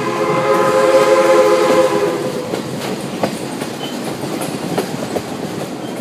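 A train's locomotive horn sounds a long, steady chord that stops about two and a half seconds in, heard from on board. After it the coaches roll on, with the rumble of the wheels and scattered clicks over the rail joints.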